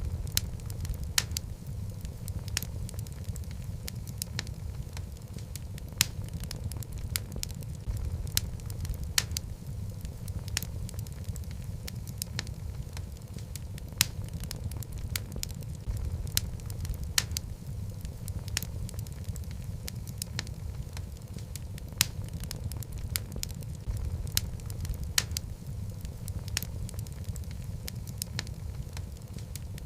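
Wood fire burning in a fireplace: a steady low rumble of flames with frequent sharp, irregular crackles and pops from the logs.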